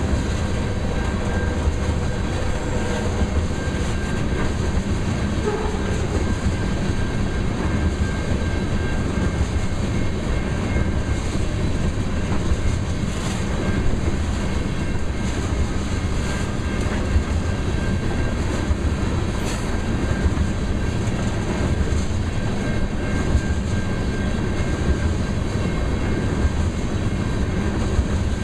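Loaded oil tank cars of a freight train rolling past: a steady rumble of steel wheels on rail, with scattered sharp clicks and a faint high steady tone.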